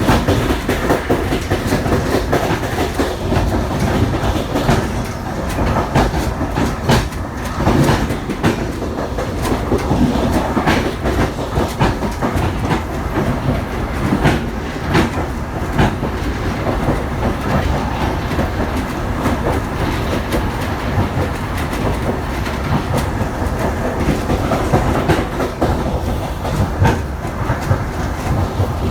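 A passenger train's carriage wheels running on the rails with a steady rumble, clicking irregularly over the rail joints and points.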